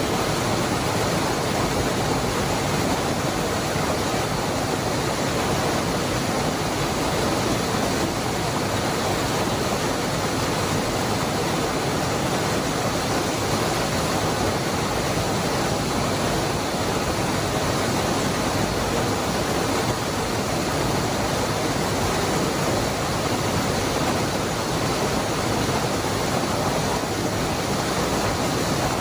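Waterfall of the Cascada del Hervidero: water falling and churning in a steady, even rush with no change or separate events.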